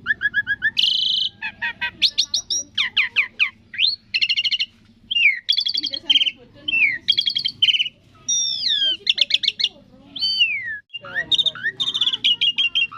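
Jalak suren (Asian pied starling) singing a long, varied song of quick chirps, rattling trills and sliding, mostly falling whistles, with a brief break about eleven seconds in.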